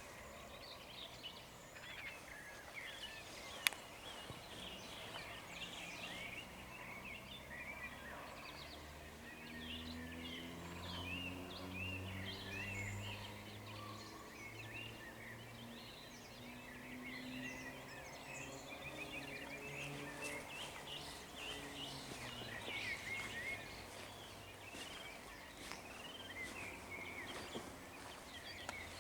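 Dawn chorus of many songbirds chirping and singing over a meadow. Through the middle a low, slowly wavering drone, like a distant engine, runs under the birdsong, and there is one sharp click early on.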